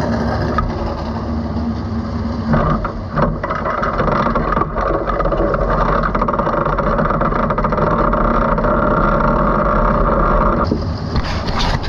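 Sprint car engine running as the car rolls slowly on the dirt track, heard close up from the cockpit. The sound steadies and grows fuller a few seconds in, then eases slightly near the end.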